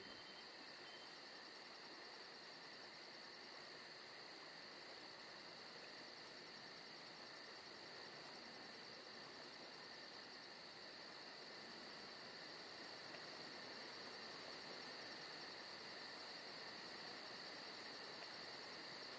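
Faint, steady chorus of crickets chirping in a fast, even pulse, high in pitch.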